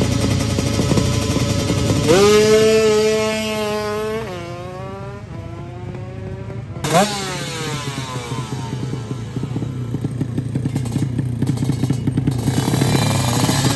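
Drag-racing motorcycles at full throttle. About two seconds in, an engine note jumps sharply up and holds high, then drops in steps as the bike shifts gears. Near seven seconds a second sharp rise falls away in a long downward glide as a bike passes.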